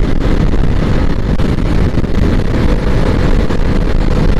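Bajaj Pulsar NS200 motorcycle ridden at speed: its single-cylinder engine running steadily under heavy wind buffeting on the microphone.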